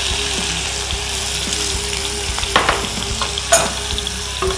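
Crushed shallots sizzling steadily as they fry in hot coconut oil in a nonstick pan, just after going into the oil. Two sharp knocks a little past halfway and about three and a half seconds in.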